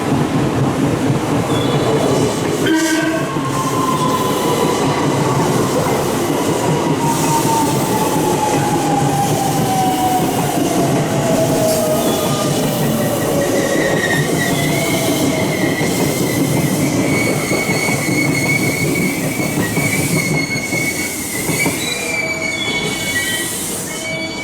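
Electric train running in along the platform and slowing, a steady rumble of wheels on rail. A whine falls slowly in pitch over about ten seconds, then a high steady squeal holds through the second half.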